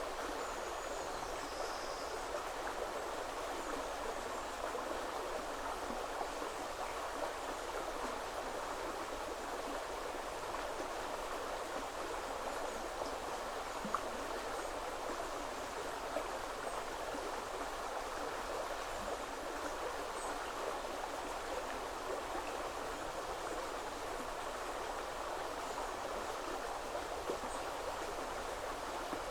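River water running steadily over stones, an even rushing with no breaks. A few faint high bird calls come through, the clearest about a second or two in.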